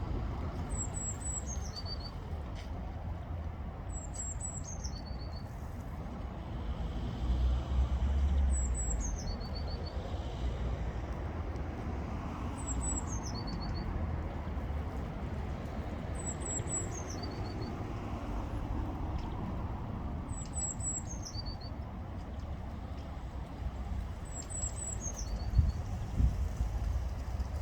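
Eurasian blue tit singing. Each phrase is a few thin, high notes that slide down into a short, lower trill, repeated seven times about every four seconds over a steady low rumble.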